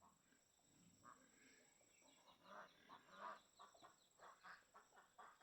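Domestic poultry calling faintly: a quick run of short clucking calls, about three a second, starting about two seconds in and growing louder.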